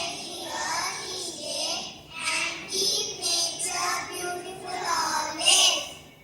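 Students' voices delivering a poem about nature in a rhythmic, sing-song way, stopping abruptly at the very end.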